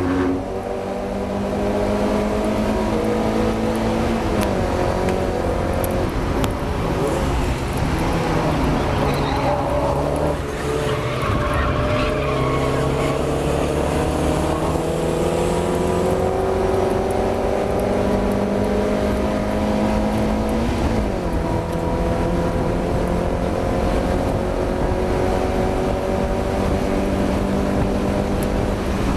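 Mazda MX-5's four-cylinder engine under race load. The revs climb steadily and drop sharply several times, at each gear change or lift.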